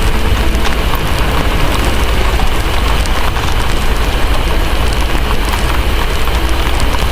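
Steady heavy rain over a deep, continuous low rumble, with scattered sharp crackles of a wood fire.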